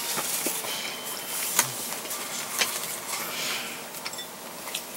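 A person eating quietly, chewing a mouthful of food, with a few short clicks over a steady background hiss.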